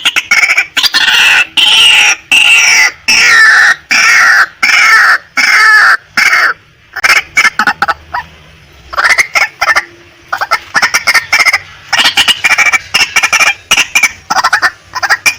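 Female white-breasted waterhen calling loudly: a run of harsh, downward-sliding notes about two a second for the first six seconds, then bursts of rapid, short clucking notes through the rest.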